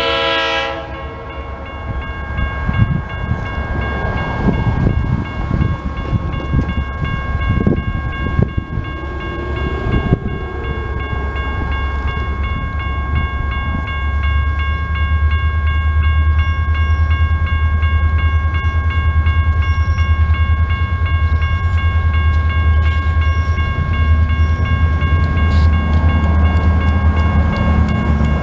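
Freight train's diesel locomotive at a road crossing: its horn chord cuts off in the first half-second. Then the train rolls past with knocking and clatter from the wheels, and a deep engine rumble that grows louder about halfway through and stays strong. A crossing signal bell rings steadily throughout.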